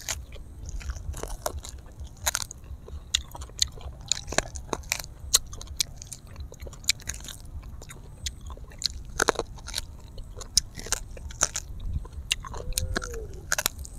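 Close-miked biting and chewing of grilled honey duck meat pulled off the bone by hand, heard as many short, sharp mouth clicks and crunches throughout.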